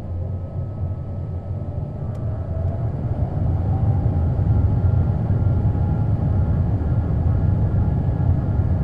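Pratt & Whitney PW1500G geared turbofans of an Airbus A220 heard from inside the cabin, spooling up: a deep rumble grows louder about three seconds in while a whine rises in pitch, as thrust is set for the takeoff roll.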